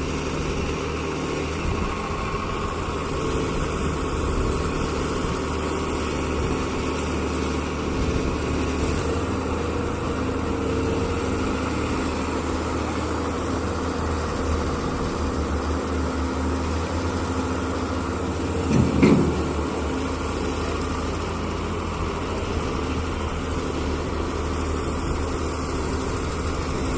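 Heavy vehicle engine running steadily, with a brief louder surge about nineteen seconds in.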